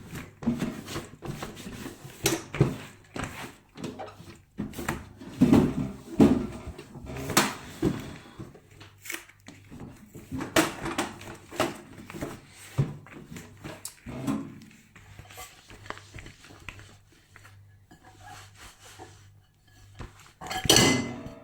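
Hands cleaning a microwave oven: a wet cloth rubbing over its surfaces, with irregular clicks and knocks of its hard plastic and glass parts being handled and a louder clatter near the end.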